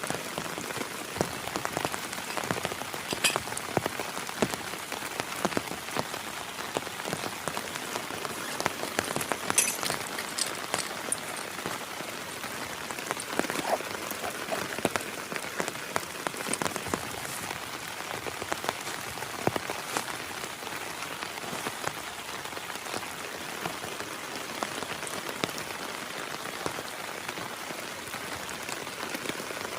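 Heavy rain falling steadily, with many individual drops striking close by as sharp taps.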